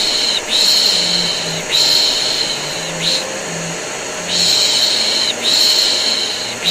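Vacuum cleaner running steadily, with a long hissing 'shh' shush repeated about once a second over it, with a short break near the middle. The two are layered together as baby-soothing white noise.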